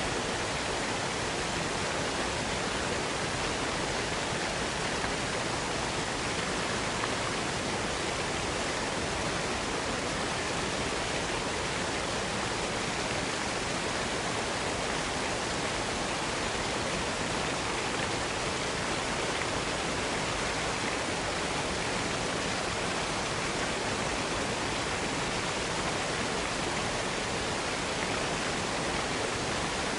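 Waterfall cascade: a steady, even rush of falling water.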